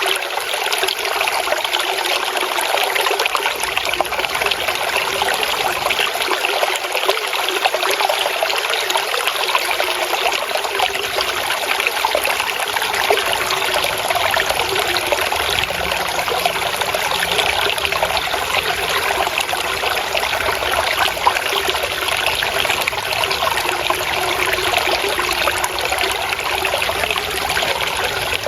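Steady flowing, trickling water, like a small stream babbling over stones.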